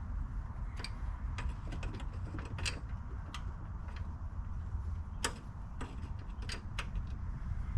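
Light metallic clicks and ticks of a wrench working the carburetor fasteners loose, scattered irregularly about once every half second to second, over a low steady rumble.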